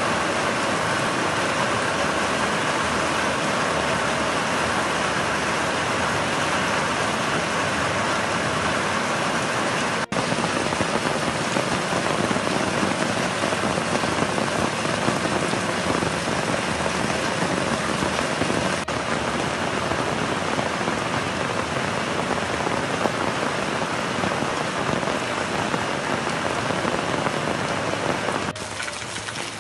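Heavy rain falling steadily onto a paved lane and the surrounding trees: a dense, even hiss, with brief breaks about ten and nineteen seconds in and a thinner sound near the end.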